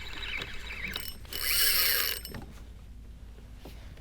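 Spinning fishing reel being cranked while fighting a hooked fish, with a louder hissing burst lasting under a second about a second and a half in.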